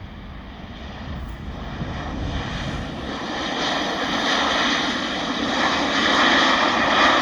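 Jet airliner on approach to land, its engine noise growing steadily louder as it nears, with a steady whine over the roar.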